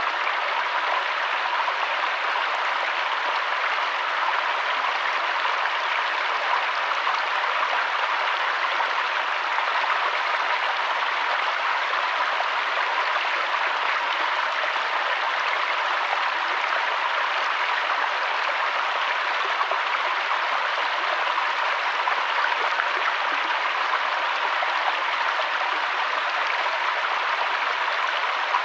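Flowing river water rushing steadily, an even hiss with no breaks or changes.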